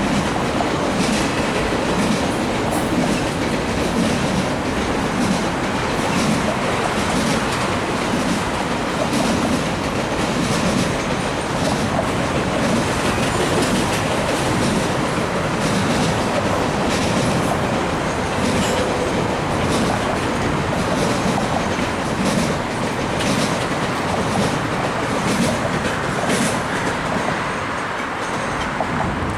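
Cars of a CN double-stack intermodal freight train rolling past at speed: a steady rumble of wheels on rail, with repeated clicks as the wheels cross rail joints. The sound eases slightly near the end.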